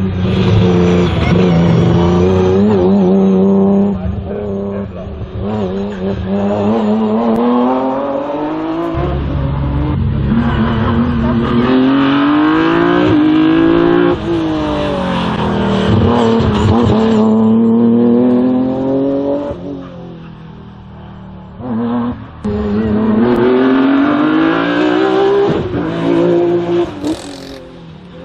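Race car engine in an autoslalom run, revving hard and climbing in pitch, then dropping sharply as the driver lifts or shifts, over and over through the course. It goes quieter for a couple of seconds about two-thirds of the way through, picks up again, then fades near the end.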